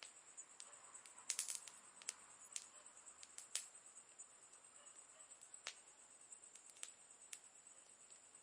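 Faint campfire crackling: scattered sharp pops and snaps from burning wood, a quick cluster about a second in and single pops after, over a steady high-pitched hiss.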